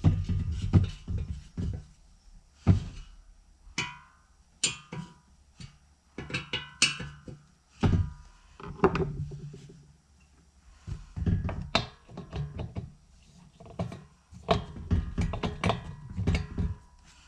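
Irregular knocks, clunks and clatter of a car's radiator fan parts (housing, motor and blade) being handled and fitted together by hand, in bursts with short pauses between them.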